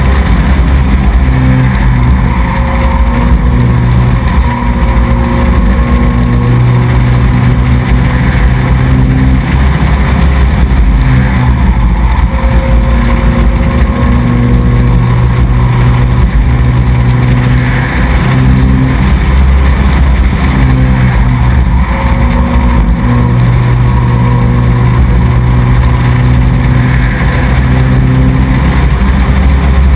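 Race truck's engine running hard on the track, easing off briefly every five or six seconds and then pulling again.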